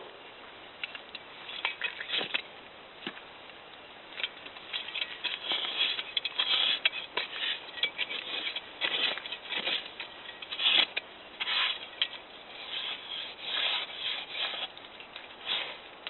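Digging in sandy soil: irregular scraping strokes of a tool or hands through sand, some close together, busier from about four seconds in.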